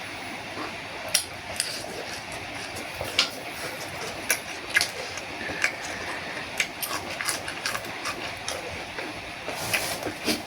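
Close-up eating sounds of a person eating boat noodle soup with fresh vegetables: scattered crisp clicks and crunches of chewing, irregular, over a steady background hiss.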